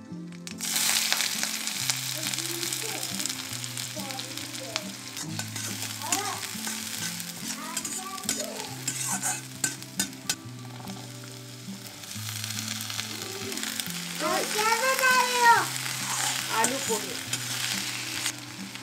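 Chopped onions and green chillies sizzling in hot oil in an iron wok as they are stirred with a spatula, with diced potatoes stirred in later. The sizzle starts sharply just under a second in.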